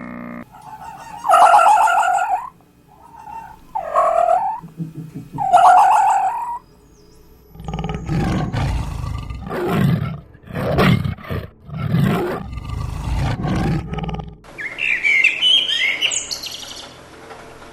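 A run of different animal calls: three loud pitched calls, then a series of rough, low roars, then bird chirping near the end.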